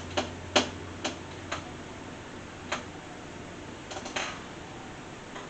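Several sharp clicks at irregular intervals, over a steady hiss. A low hum stops about two and a half seconds in.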